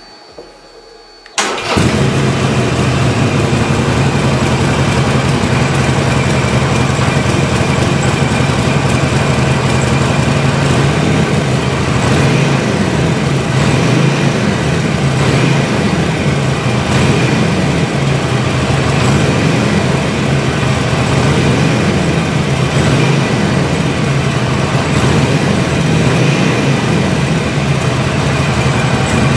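Harley-Davidson Sportster XL1200's air-cooled 1200 cc V-twin engine starting, catching about a second and a half in, then idling steadily.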